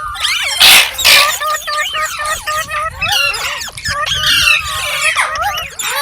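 Green parrots chirping in a rapid stream of overlapping whistled calls that glide up and down in pitch. Two loud, harsh screeches come about a second in.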